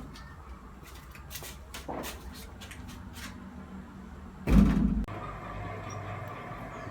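A few light clicks and knocks of household handling, then one heavy thump about four and a half seconds in, like a cupboard door shutting, followed by a faint steady hum.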